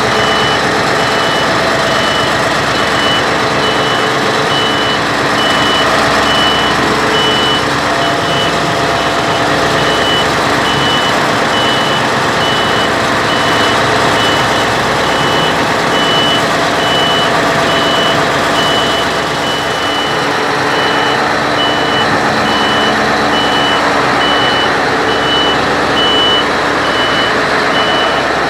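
Reversing alarm of a heavy machine, one high beep repeating at an even pace, over the loud steady running of heavy diesel machinery.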